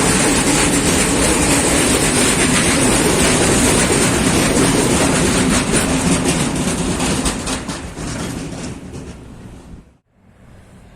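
A train rolling past close by, its wheels clicking steadily over the rails, growing fainter from about six seconds in. The sound cuts off abruptly near the end, leaving a much quieter background.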